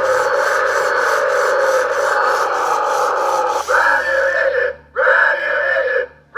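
Road Rippers Rammunition toy monster truck's small built-in speaker playing its recorded sound clips, harsh and tinny. The clip changes a little over halfway through, then cuts out suddenly twice near the end as one clip stops and the next begins.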